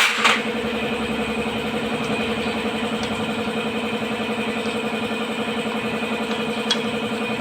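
An engine idling steadily with an even pulse, with two sharp clicks at the start and another near the end.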